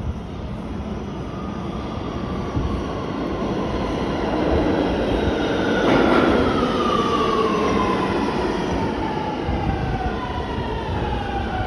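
R211T subway train running on the track, rumbling and getting louder toward the middle. Its motors whine on several pitches that fall steadily in the second half.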